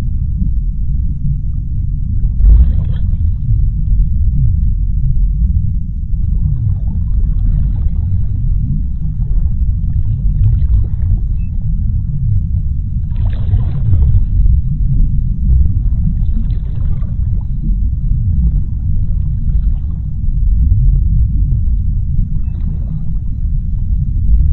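Underwater ocean ambience: a steady deep rumble with fainter swells of higher, rushing sound every two to four seconds.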